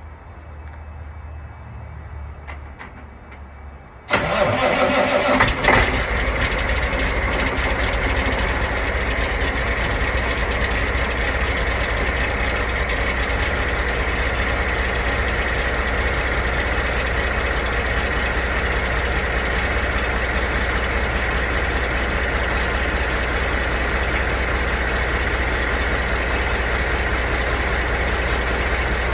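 Caterpillar 3406E inline-six diesel engine on a cold start: after a low rumble it fires suddenly about four seconds in, surges briefly, then settles into steady running.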